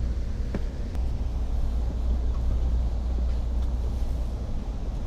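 Low, steady rumble of a passenger train rolling slowly, heard from inside the car.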